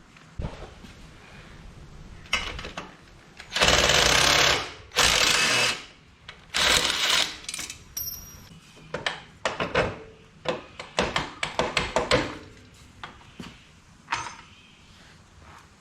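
Impact wrench fired in three bursts of about a second each, undoing fasteners, followed by a run of quick metallic clicks and rattles from hand tools and parts being handled.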